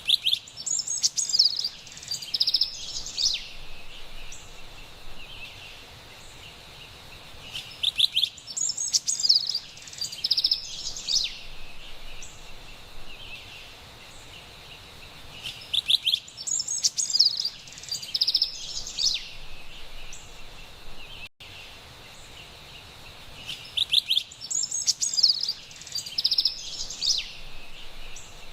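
Carolina wren singing: four bouts of bright, rapid song, each about three seconds long, repeating every eight seconds over a faint steady hiss. The audio drops out for an instant about twenty-one seconds in.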